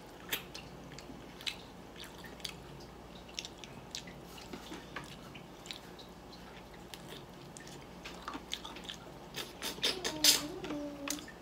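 Close-up wet chewing and lip-smacking of a person eating chicken by hand: scattered sharp mouth clicks and smacks that come thicker near the end.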